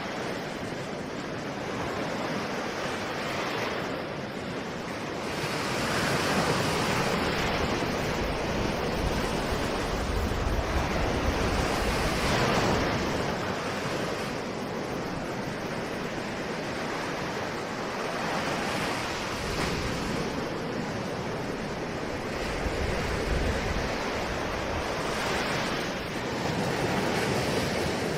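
Ocean surf: waves breaking and washing up the shore, swelling and easing every few seconds in a continuous rush.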